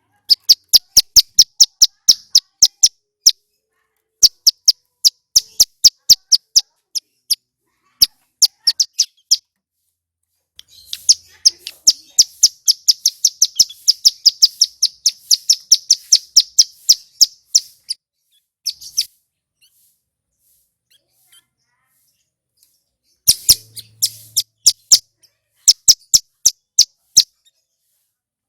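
Male ciblek gunung (a prinia) calling loudly: rapid series of sharp, high, clicking chips, running into a long fast trill of about eight seconds in the middle, then a pause and two more short bursts near the end.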